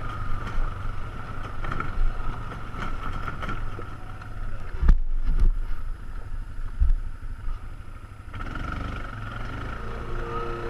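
ATV engine running. It drops back for a few seconds in the middle, with a sharp knock about five seconds in, then picks up again.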